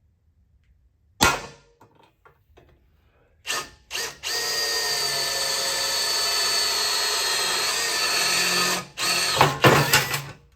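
Electric drill boring holes through the metal crossmember plate: a knock about a second in, two short starts, then a steady whine for about four and a half seconds, followed by several short bursts near the end.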